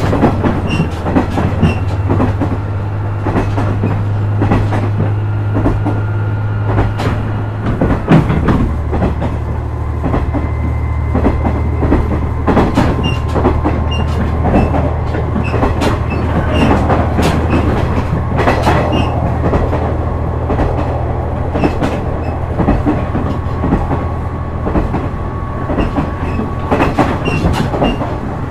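KiHa 126 series diesel railcar running along the line, its diesel engine droning steadily under the click of wheels over rail joints. The engine note drops in pitch about eight seconds in.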